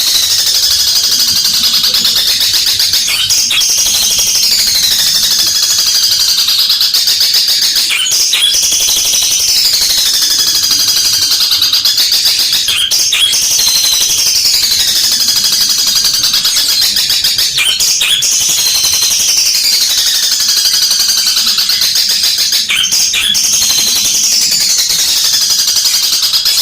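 Long-tailed shrike singing loudly: a rapid, harsh chattering song, high-pitched, with a falling phrase repeated about every five seconds.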